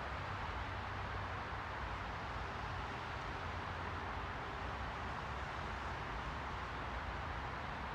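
Steady, unchanging hiss of a white noise track, strongest in the middle range with a low rumble underneath.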